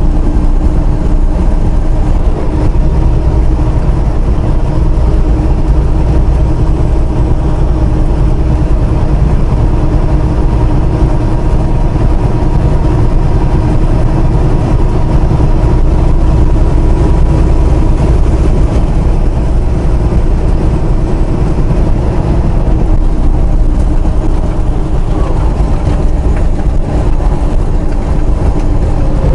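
Semi-truck engine and road noise heard inside the cab while driving, a steady low drone with a few constant tones and no change in pace.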